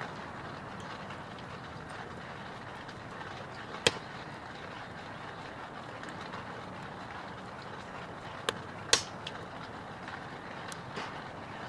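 Wood fire burning in a Petromax Atago fire pit: a steady hiss with a few sharp crackling pops, one about four seconds in and two close together near the end.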